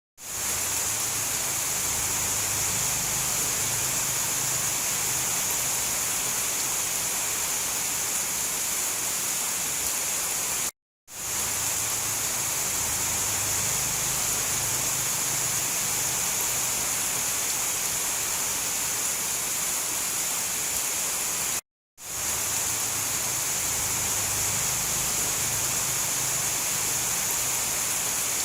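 Steady rain hiss with a faint low rumble beneath it, played as a short recording on a loop. The sound cuts out for a split second and restarts about every eleven seconds, twice within the span.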